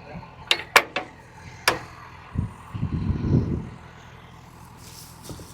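Steady low hum of an idling tractor, with a few sharp knocks in the first two seconds and a brief louder low rumble around the middle.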